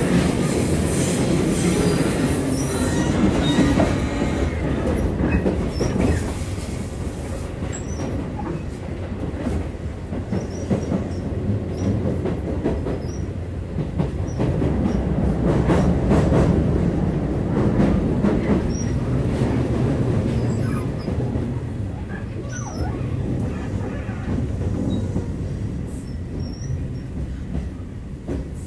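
Interior running noise of a Tobu 8000-series electric train: wheels rumbling on the rails, with a high hissing squeal for the first several seconds that then fades. The rumble eases off near the end.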